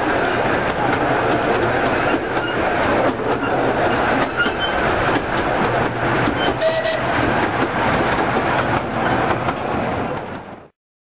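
Fairbourne Railway miniature train running through a tunnel, heard from inside a coach: a steady, loud rattle and clatter of wheels and coaches on the track. The sound cuts off suddenly near the end.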